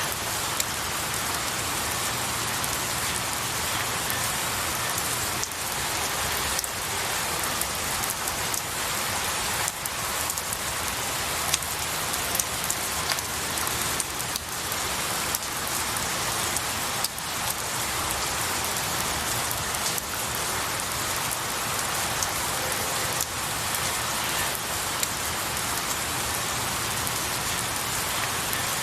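Steady rain falling on pine needles and a tree, with many individual drops ticking sharply over the even hiss of the downpour.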